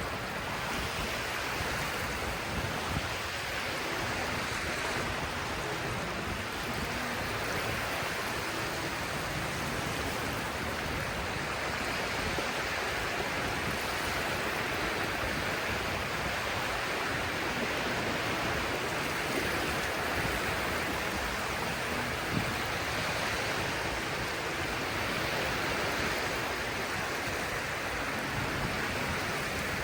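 Steady wash of sea waves and surf.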